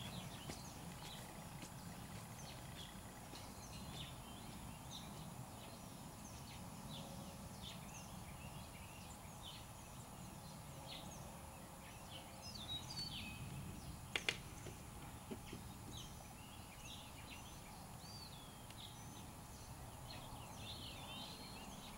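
Faint bird calls: many short chirps and whistles, repeating throughout over a low, even background noise, with one sharp click about fourteen seconds in.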